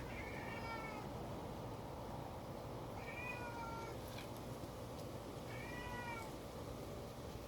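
A kitten meowing three times, about two and a half seconds apart. Each call is high-pitched, lasts under a second and drops slightly in pitch at the end.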